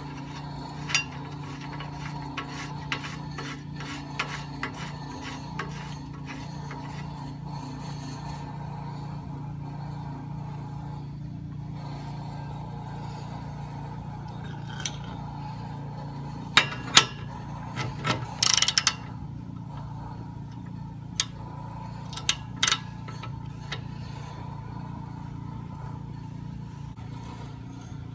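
Hand tools clicking and scraping on metal as an O2 sensor is tightened into a downpipe, with a cluster of sharper clinks about two-thirds of the way through, over a steady low hum.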